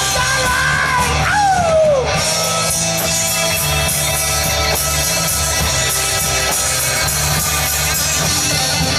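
Live rock band playing loudly. A sung note is held and then slides down, ending about two seconds in, after which electric guitars, bass and drums carry on without vocals.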